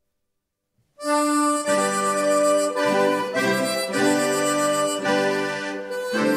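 Silence, then about a second in an accordion starts the instrumental introduction to a song, playing a tune of sustained notes that change about once a second.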